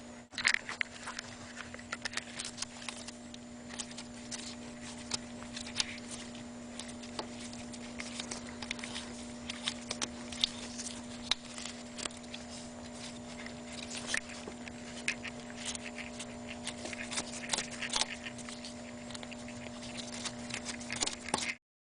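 Irregular small clicks and taps of a dust cap being handled and pressed onto an idler pulley, over a steady hum.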